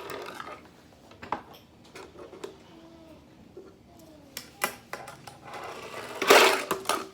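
Tech Deck fingerboard clicking and clattering on a hard surface as tricks are tried: scattered sharp clicks at irregular intervals, with a louder clatter about six seconds in.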